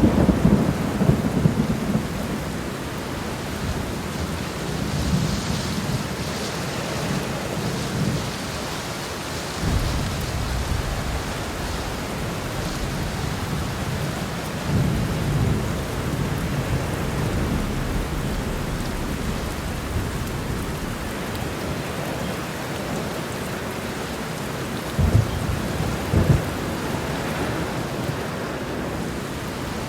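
Heavy rain pouring steadily, with thunder rumbling low several times. Two sharper thunderclaps come near the end.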